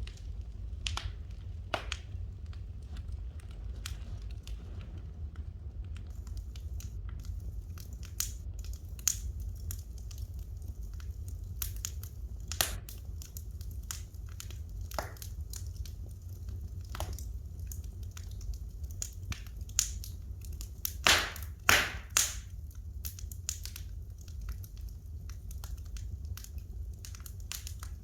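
Wood fire in a fireplace crackling, with irregular sharp pops and snaps over a steady low rumble; a cluster of the loudest pops comes about three quarters of the way through.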